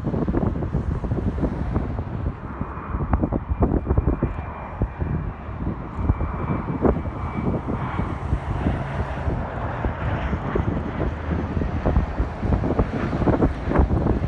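Wind buffeting the microphone over the noise of a landing jet airliner's engines, with a faint high engine whine for several seconds in the first half.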